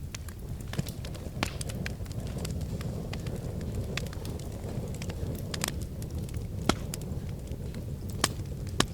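Wood fire in a fireplace crackling over a steady low rumble, with irregular sharp snaps and pops, the loudest a few single pops in the second half.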